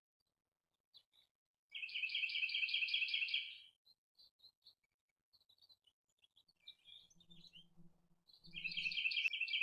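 A songbird singing: two fast trills of rapidly repeated high notes, each about two seconds long, one near the start and one near the end, with scattered short chirps in between.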